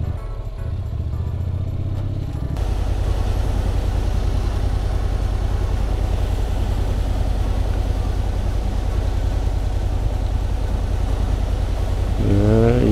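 Motorcycle engine idling with a steady low, even throb, over the wash of surf breaking on rocks.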